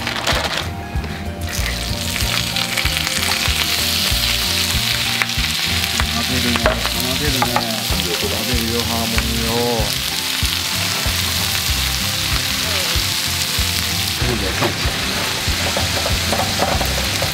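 Pork belly, then vegetables and yakisoba noodles, sizzling steadily on a hot griddle plate as they are stirred and turned with a utensil.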